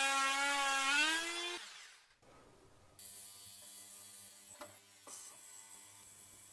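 A small electric motor whines, its pitch rising before it stops about a second and a half in. After a moment of quiet, a steady hiss starts suddenly, with a couple of faint clicks.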